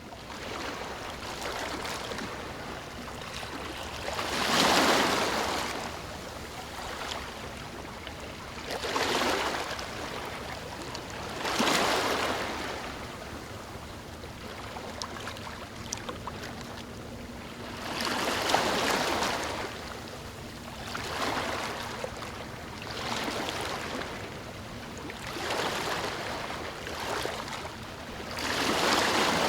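Ocean waves breaking on a beach, the surf swelling and washing in every few seconds over a steady hiss.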